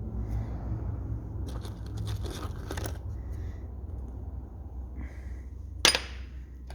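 Small metal engine valve-gear parts handled and sorted in a box: light rustling and clinking, with one sharp click near the end, over a steady low hum.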